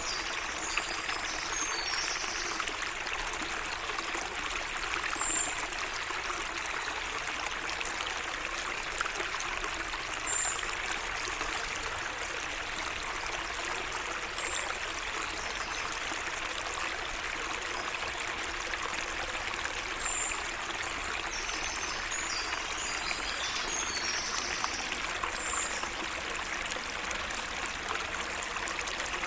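Water of a small garden waterway trickling and running steadily. Birds call over it: a short high chirp repeated about every five seconds, and two brief bursts of twittering song, near the start and about three-quarters of the way through.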